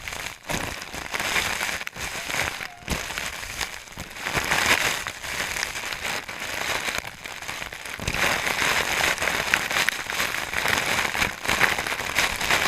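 Waterfall: falling water and spray making a loud, dense crackling hiss that swells and dips.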